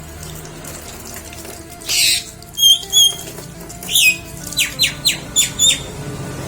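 A jalak (starling or myna) calling: a harsh rasping note, then two clear whistles, then a quick run of short down-slurred whistled notes.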